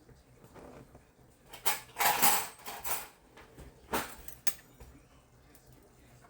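Kitchen utensils scraping and clattering against a dish, loudest about two seconds in, followed by two sharp knocks about four seconds in.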